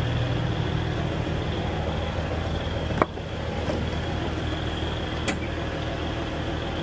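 Steady low hum of idling diesel truck engines, with one sharp click about three seconds in and a fainter click about two seconds later.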